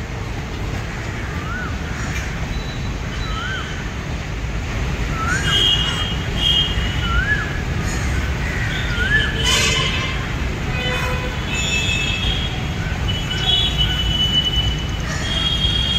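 Low, steady rumble of a passenger train running away into the distance. Over it, a bird gives a rising whistled call five times, about every two seconds and a little higher each time, and other birds chirp near the end.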